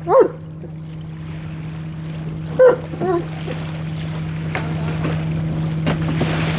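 A boat's motor running with a steady hum while a dog gives short barks, once at the start and twice more about two and a half to three seconds in. Wind and water noise grow louder through the second half.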